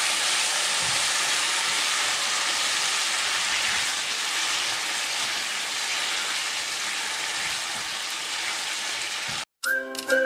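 Sliced pork liver with ginger and onion sizzling steadily as it is stir-fried in a hot pan. The sizzle cuts off suddenly near the end and music begins.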